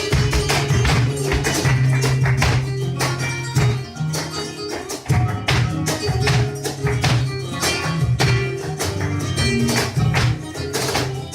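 Live flamenco music: a guitar playing, with many sharp percussive taps from a dancer's footwork (zapateado) throughout.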